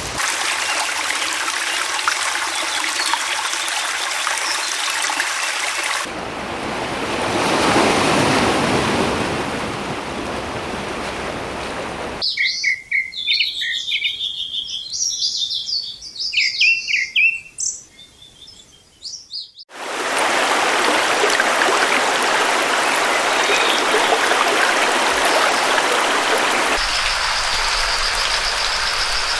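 Separate nature-sound clips in turn: a steady rushing hiss, then about seven seconds of small birds chirping in short, quick notes over an otherwise quiet background, then the rushing hiss again. Near the end a thin, steady high-pitched trill joins the hiss.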